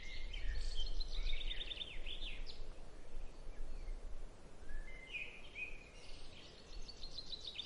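Birds chirping in two quick, trilling phrases over a steady low background rumble.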